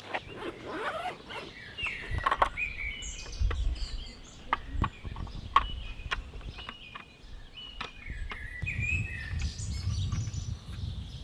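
Birds calling in short repeated chirps, with scattered sharp clicks and a low rumble at times.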